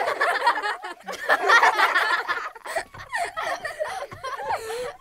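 Laughing and chuckling voices: short, wavering, broken-up sounds.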